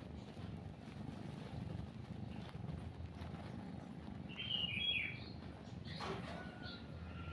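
Cat purring as a steady low rumble, with birds chirping over it. The loudest moment is a short burst of chirps about four to five seconds in, followed by a few more chirps and a thin held whistle near the end.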